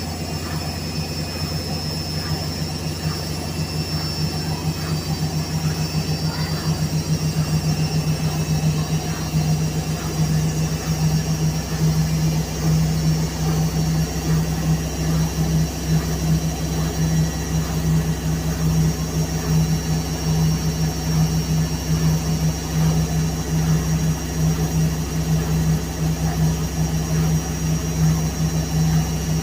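Whirlpool washing machine spinning at speed: a steady low drone with a fast pulse and a faint high motor whine that slowly rises, getting louder about seven seconds in.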